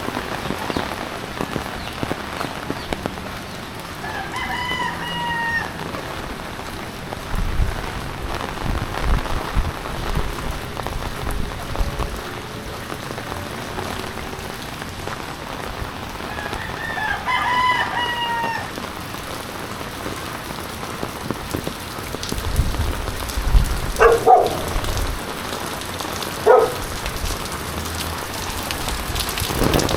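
Steady rain pattering on surfaces, with a rooster crowing twice, about four seconds in and again around the middle. Two short sharp calls follow near the end.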